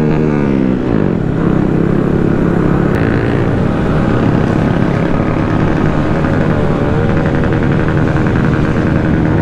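Small gas motorcycle engines running during a group ride; one engine's note falls away about a second in, then several engines run together over a steady low rumble.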